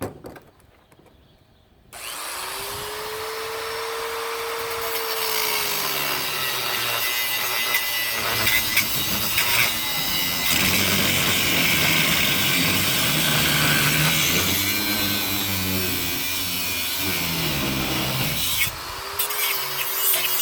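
Angle grinder started about two seconds in, its motor whine rising as it spins up, then grinding steadily into metal to cut away a part that won't come loose. It stops briefly near the end and spins up again.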